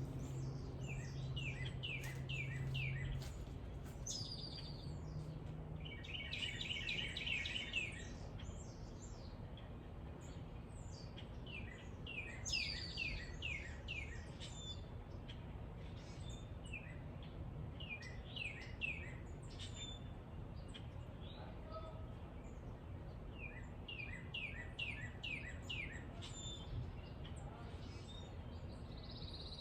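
Wild songbirds at a backyard feeder singing and calling: a phrase of five or six quick falling notes comes three times, about twelve seconds apart, with a buzzy trill between them. A steady low background noise runs underneath.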